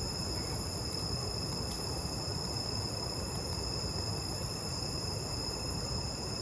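Steady chorus of night insects, crickets or similar, holding several constant high-pitched trills, over a low, even hiss.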